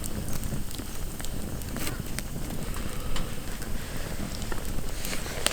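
Wood campfire crackling, with scattered irregular pops and one sharper pop near the end, over a low steady rumble.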